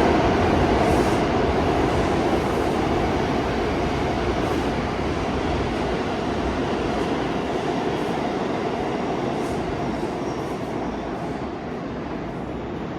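A New York City subway train running along the tracks through the station, a steady rumble with faint wheel clicks that slowly fades as the train moves away.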